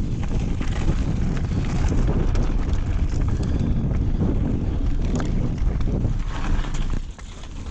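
Wind rushing over an action camera's microphone as a mountain bike rides downhill, with rattles and knocks from the bike over rough ground. The noise drops off sharply about seven seconds in as the bike slows.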